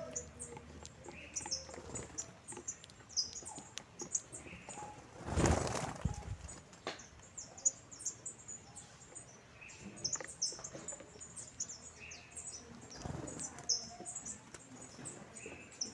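Saffron finches chirping continually, a flock giving many short, high chirps. A brief rush of noise sounds about five seconds in, and a fainter one near the thirteen-second mark.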